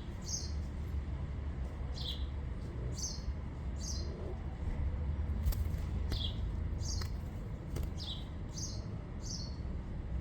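A small bird chirping over and over, each chirp a short high note falling in pitch, over a steady low rumble.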